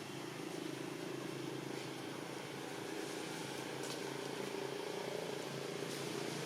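A motor running steadily with a low, even rumble, with a few faint clicks over it.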